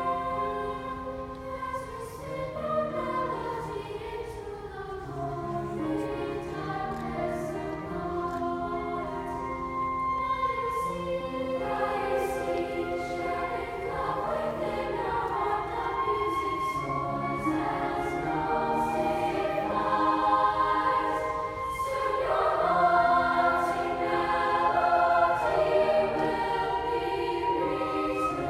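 Honors chorus singing in several parts over long held low notes, building louder in the second half.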